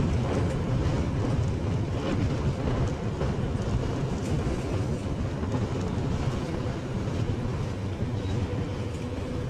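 Motorcycle riding along at road speed: engine and wind noise over the microphone give a steady low rumble.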